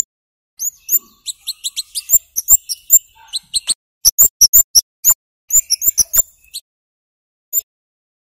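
Scarlet-headed flowerpecker (kemade) giving loud, sharp, very high 'cit' chirps in quick runs. The chirps stop about two-thirds of the way through, with one last chirp near the end.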